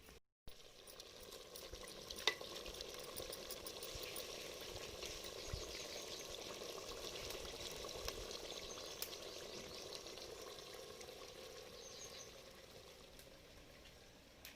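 Chicken pieces sizzling as they fry in a pan, with a spoon stirring and clicking against the pan. The chicken is browned and nearly done. A sharp knock comes about two seconds in.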